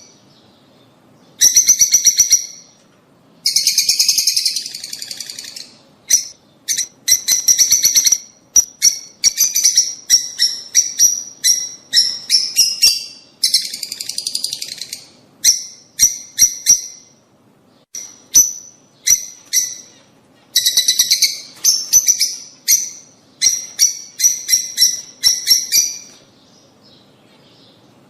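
Lovebirds calling in bursts of rapid, shrill chirps, with short pauses between bursts.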